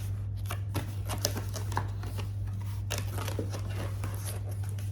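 Cardboard box and paper packaging being handled during an unboxing: scattered rustles, taps and light clicks, over a steady low hum.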